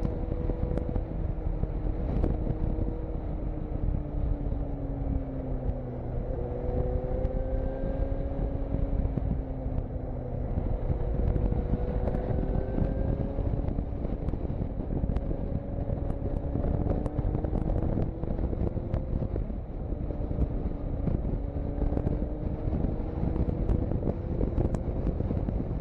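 Motorcycle engine running while riding, its pitch slowly rising and falling as the throttle and speed change through the bends, over a steady low rumble.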